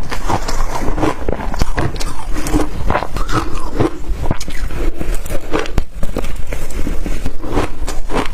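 A person biting and crunching blender-crushed ice close to the microphone, in a dense run of sharp, irregular crunches.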